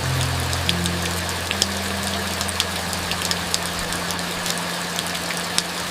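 Heavy rain falling steadily with many distinct drop hits, over low held notes of soft background music that change pitch in the first second or two and then sustain.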